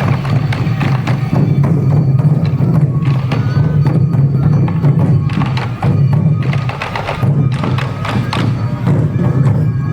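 Sansa odori festival music: a large group of taiko drums beaten in a steady, driving rhythm, with bamboo flutes playing over them.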